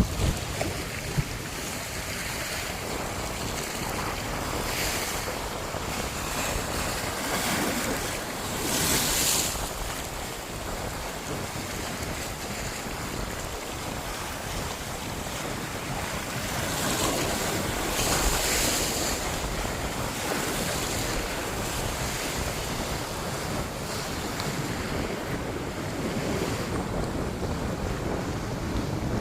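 Sea surf breaking and washing up the beach, with wind buffeting the microphone. The wash swells louder about nine seconds in and again around eighteen seconds in.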